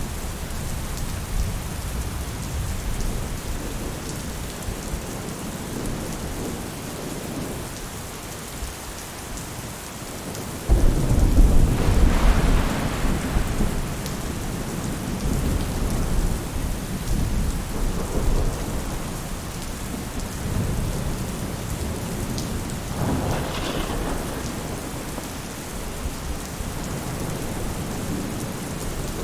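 Steady rain falling on a roof, with a rumble of thunder starting suddenly about a third of the way in and a weaker rumble later on.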